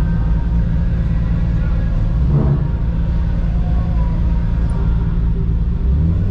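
A truck running with a steady low rumble, with a short voice briefly about two seconds in.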